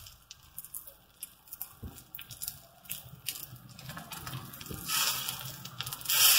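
Uttapam batter cooking on a hot iron tawa: faint, scattered crackling ticks. From about five seconds in there is louder hissing, as a metal spatula scrapes over the pan and spreads the batter.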